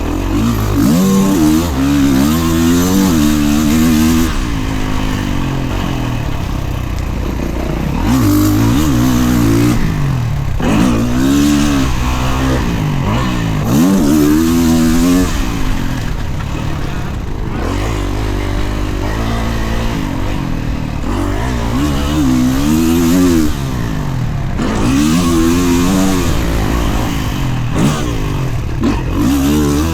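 Kawasaki KX450 dirt bike's four-stroke single-cylinder engine being ridden hard around a motocross track. The engine pitch rises and falls over and over as the throttle is opened and chopped every couple of seconds.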